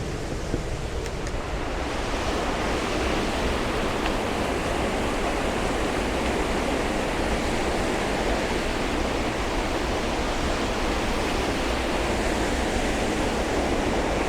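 Ketetahi Falls: the steady sound of a waterfall pouring into its pool, a little louder from about two seconds in.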